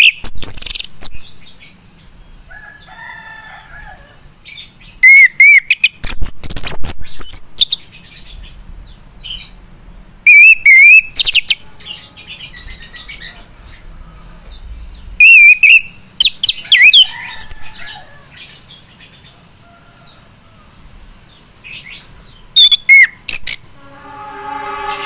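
Male chestnut-capped thrush singing in full voice: loud, rapid, warbling phrases given in separate bursts every few seconds with short pauses between. A steady droning, music-like tone starts near the end.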